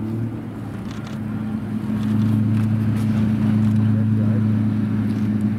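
Pagani Zonda S's V12 engine running at fairly steady revs, growing louder about two seconds in.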